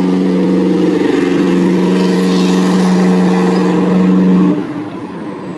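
A steady motor drone with an even pitch and a hiss over it, which drops off sharply about four and a half seconds in.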